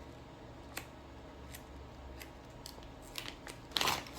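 Small sewing machine accessories being handled: scattered light clicks, then a brief louder rustle near the end.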